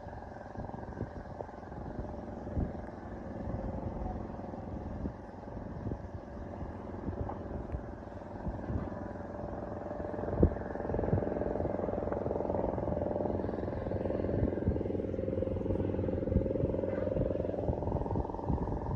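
Outdoor street noise of vehicle engines running, with scattered knocks; from about ten seconds in an engine grows louder and steady, its pitch dipping and then rising again near the end.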